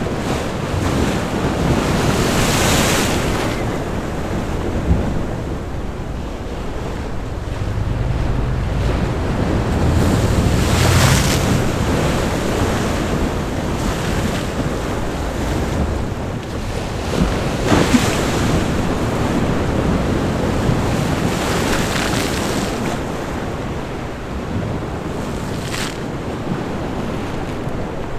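Sea waves breaking against shoreline rocks, with a steady wash of surf. About five times a wave strikes and throws up a hissing burst of spray.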